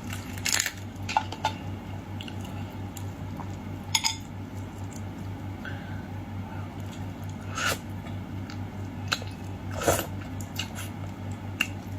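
Boiled shrimp being peeled and eaten: scattered sharp clicks and crackles of shell and handling, with quiet chewing, over a steady low hum.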